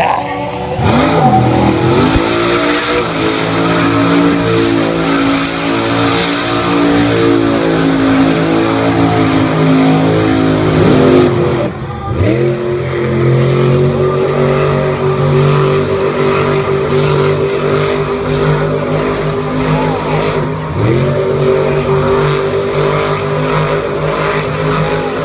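Racing vehicle engines revving hard. The pitch drops and climbs back up three times, about a second in, near the halfway point and past two-thirds, and holds high in between.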